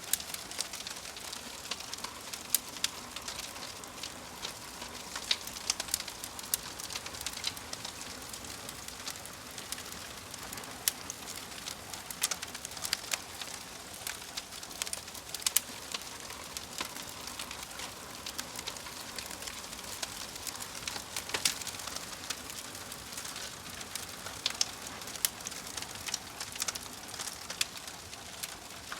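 Wood fire crackling and popping in a steady run of irregular sharp snaps over a soft hiss, with birds calling in the background.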